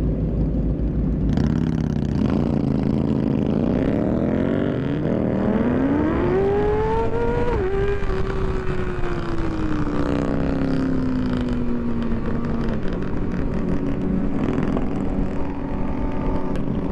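Motorcycle engine accelerating on the move, its pitch climbing for a few seconds, dropping sharply at a gear change about seven seconds in, then slowly falling as it eases off, over a steady low rumble.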